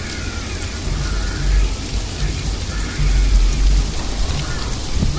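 Sleet falling steadily during a winter storm, a continuous hiss, with low rumbles swelling about one and a half and three seconds in.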